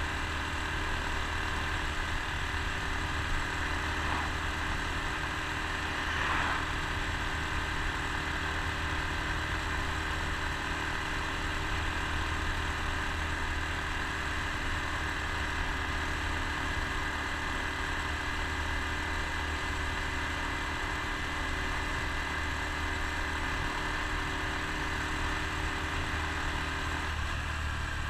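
Honda Super Cub C125's 125 cc air-cooled single-cylinder four-stroke engine running steadily at cruising speed, with wind and road noise from riding. The engine note changes about a second before the end.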